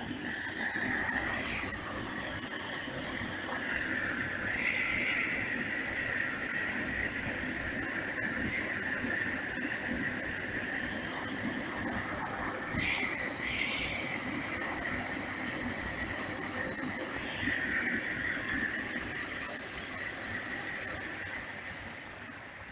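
Heavy rain and runoff water rushing steadily, with a high, wavering whine running over the noise.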